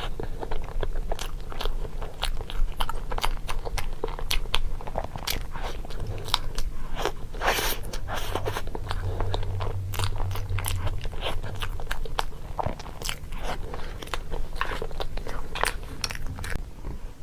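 A person biting and chewing crunchy food close to the microphone: a dense, irregular run of crisp crunches over a low steady hum.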